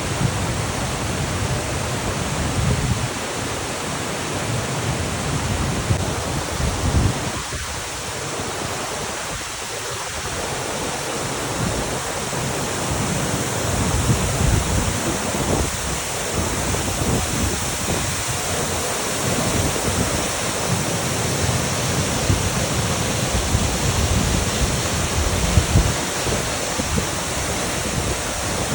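Waterfall: a steady, unbroken rush of falling water, with an uneven rumble underneath.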